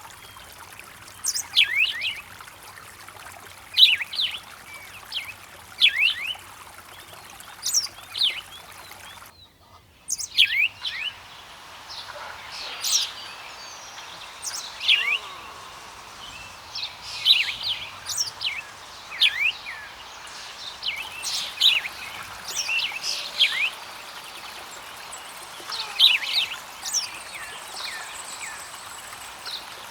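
Songbirds chirping in many short, quick downward-sweeping calls, repeated every second or two over the steady rush of a running stream. The sound drops out briefly about nine and a half seconds in, then resumes.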